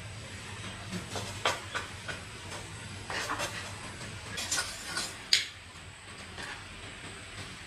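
Metal parts and hand tools being handled during engine repair work: scattered clinks and scrapes, the sharpest about five seconds in, over a steady low hum.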